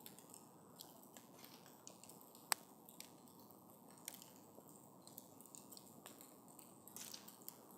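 Wood fire burning with sparse sharp crackles and pops over a faint steady hiss; the loudest pop comes about two and a half seconds in.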